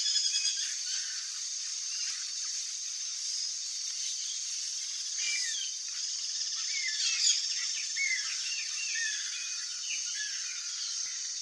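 Small birds chirping and calling in quick, short notes over a steady high hiss of background ambience. The chirps grow busier about halfway through.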